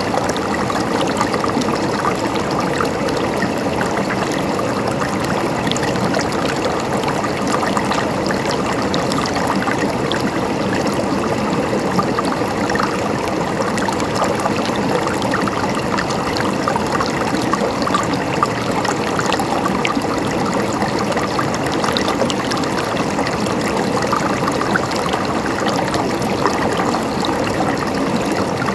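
Stream water flowing and gurgling over rocks, a steady babble with small splashes throughout.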